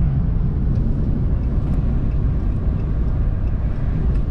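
Steady road and engine rumble inside the cab of a moving vehicle at highway speed.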